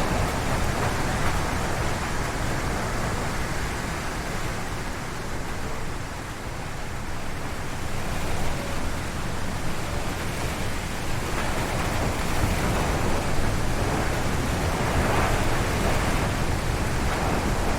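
Strong wind gusting through forest trees, a steady rushing noise that eases about six seconds in and then builds again.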